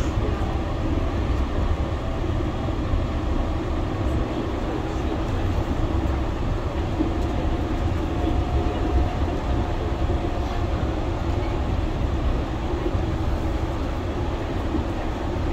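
Yurikamome rubber-tyred automated guideway train running steadily, heard from inside the car: a constant low rumble from the running gear on the guideway with a faint, steady motor whine above it.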